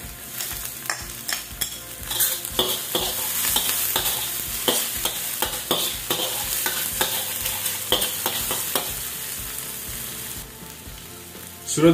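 Chopped onion and garlic sizzling in hot oil in a steel wok, with a metal spatula stirring and scraping against the pan in repeated short strokes. Near the end the stirring stops and the sizzle goes quieter.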